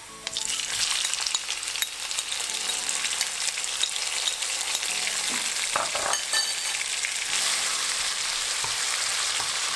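Chopped tomatoes and onions sizzling in hot oil in a non-stick frying pan. A wooden spatula stirs them, making light scraping clicks over the steady sizzle.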